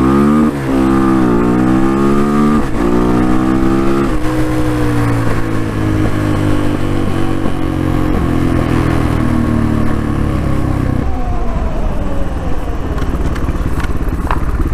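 Dual-sport motorcycle engine accelerating up through the gears, the revs climbing and dropping at each shift four times in the first four seconds, then holding a steady cruise whose pitch slowly sinks, and easing off about eleven seconds in.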